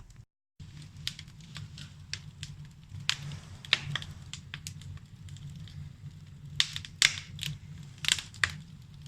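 Wood fire crackling in a fireplace: irregular sharp pops and snaps, the loudest about seven and eight seconds in, over a steady low hum.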